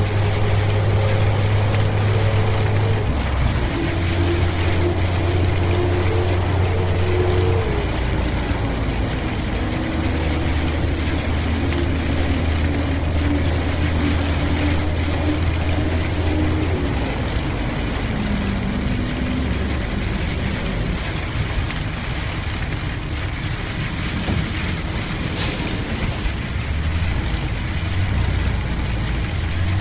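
Vehicle driving in rain: a steady engine hum under a wash of road and rain noise, the engine note shifting several times as speed changes. A single sharp click near the end.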